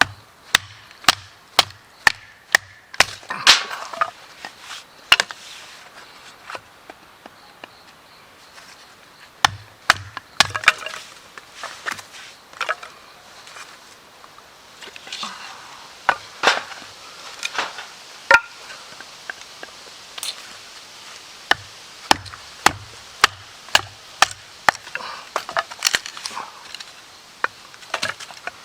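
Wood being chopped: sharp strikes in bursts of several quick blows, about two a second, with pauses between the bursts.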